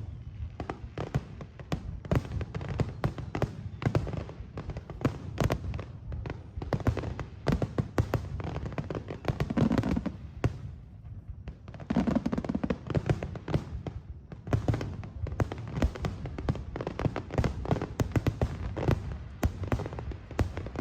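Aerial fireworks bursting in quick succession, a dense run of bangs and crackles, thinning briefly a little past the middle.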